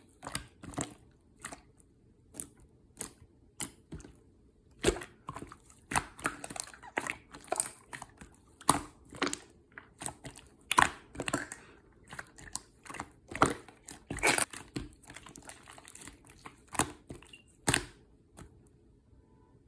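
Marbled slime being squished and pressed by hand, giving irregular sticky clicks and pops with soft crackling between them, stopping shortly before the end.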